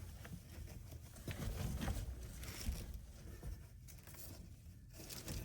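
Faint rustling, scraping and a few light knocks as a homemade blackout cover is handled and pressed into place against the carpet-lined inside of a truck camper shell.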